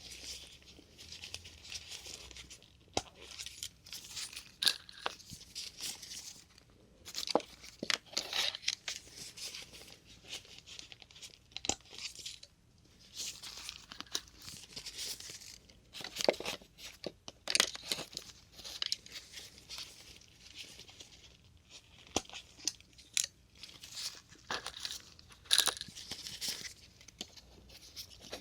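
Plastic syringe caps being pulled off one after another, each with a short crackling pop, with softer plastic handling rustles between the pops.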